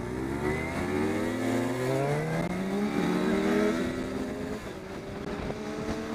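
Motorcycle engine accelerating, its pitch climbing, dropping at a gear change about two and a half seconds in, then climbing again and settling lower near the end.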